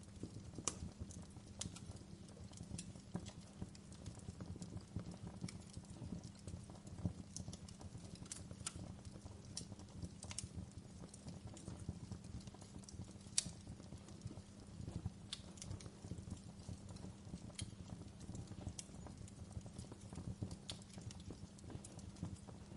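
Wood fire crackling in a fireplace: irregular sharp pops and snaps, with one louder snap a little past halfway, over a low steady rumble of burning.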